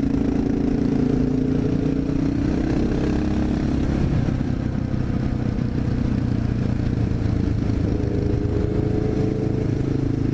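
Honda XR650L's single-cylinder engine running as the bike rides along, its note easing down slightly over the first few seconds.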